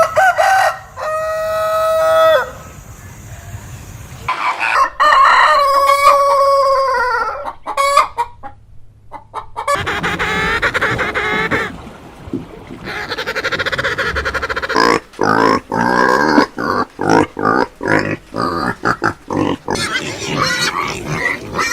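Rooster crowing twice, a shorter crow and then a longer one, followed by a run of short, choppy animal calls and noises.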